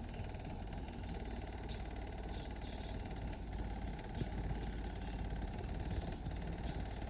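Car audio system subwoofers playing deep bass-heavy music, the sound strongest in the lowest bass.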